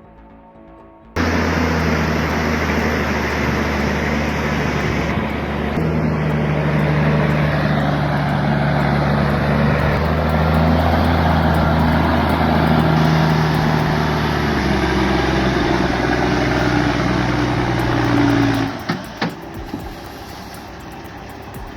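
A large engine running steadily, starting abruptly about a second in and cutting off near the end, followed by a few short knocks.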